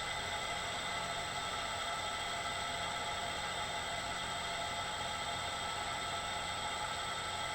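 Bridgeport milling machine running steadily with its spindle turning: an even hiss with several steady high-pitched tones from the motor and drive.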